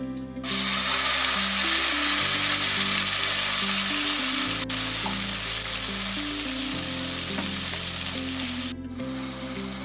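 Ground coconut-spice paste hitting hot mustard oil in a kadai: loud sizzling and frying that starts about half a second in and eases a little later on, while a spatula stirs it. Background music with slow, steady notes plays underneath.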